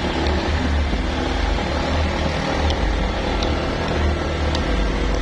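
A vehicle engine running steadily with a low rumble and a few faint ticks.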